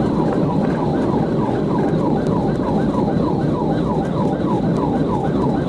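Police car siren in a fast yelp, its pitch sweeping down over and over at about three to four cycles a second, over the steady road and engine noise of a cruiser at pursuit speed.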